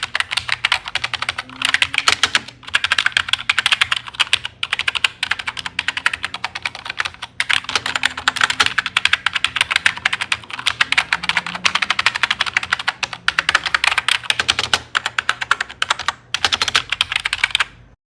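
Fast typing on a vintage computer keyboard: a dense run of key clicks with a few brief pauses, cutting off abruptly near the end.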